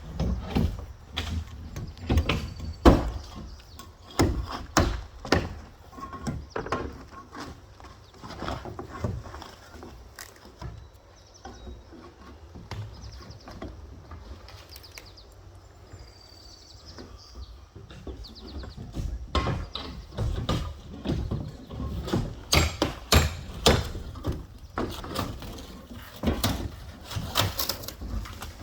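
Wooden shed being torn down: irregular knocks, bangs and cracking of boards, with a quieter stretch in the middle before the blows pick up again.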